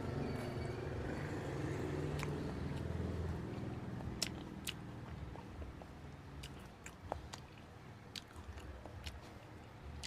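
Close-miked eating sounds: biting and chewing with sharp mouth clicks, over a low rumble that fades after the first few seconds.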